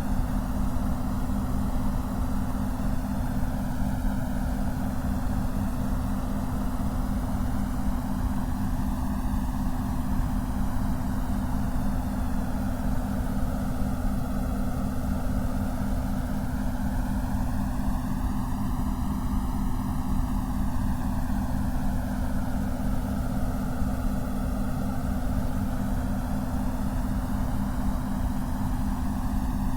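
Steady synthetic white noise with a slow, swirling sweep that rises and falls over several seconds, over a steady low hum.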